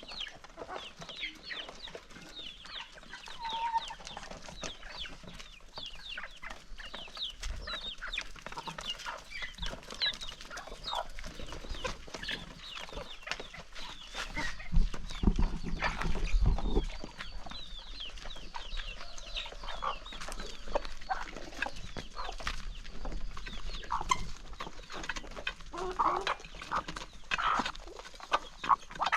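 A flock of chickens clucking and calling as they feed, with many short, high calls throughout. A few low thumps about halfway through.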